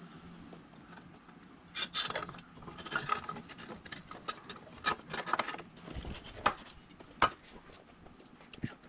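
Metal parts and hand tools clinking and scraping in irregular strikes, starting about two seconds in.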